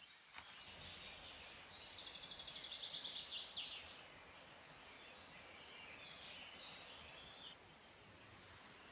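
A small songbird singing a fast, high trill that starts about a second in and lasts a few seconds, followed by a few fainter chirps, over a faint steady outdoor hiss.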